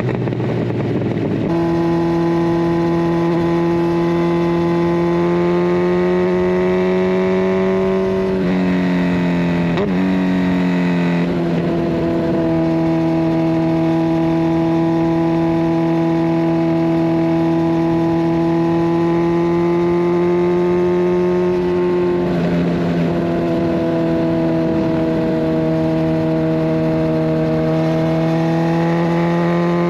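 Kawasaki Ninja 1000SX's inline-four engine running through a de-catted Scorpion Red Power exhaust at a steady road speed. The engine note shifts briefly a third of the way in and again about two thirds through, then rises gently near the end as the bike picks up speed.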